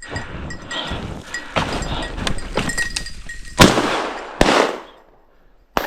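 Two shotgun blasts a little under a second apart, about halfway through, fired at a flushing pheasant, then another sharp, quieter shot near the end. Before them comes crunching and rustling as the hunter pushes through snow and brush.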